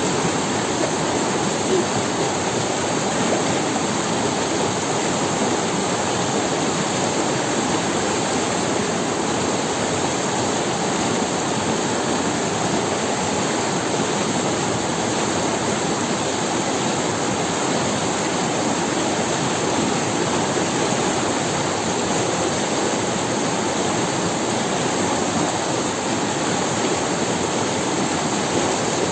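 A rocky forest river rushing over stones, a steady, unbroken wash of running water.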